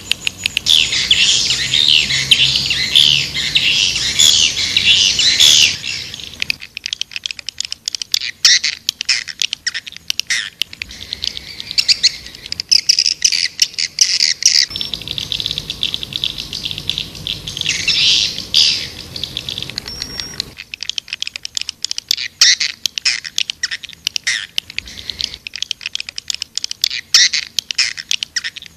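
Swiftlet lure call: many swiftlets twittering and chirping fast and densely. After about six seconds it thins to scattered high chirps and clicks.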